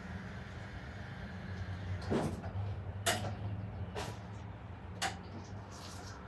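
A series of five short knocks and clatters, about one a second, over a steady low hum.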